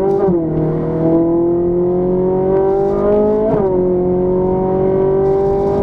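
Ferrari 458 Italia's naturally aspirated V8 accelerating, heard from inside the cabin: its pitch climbs steadily, dropping sharply twice, about a third of a second in and again past the middle, as the gearbox shifts up.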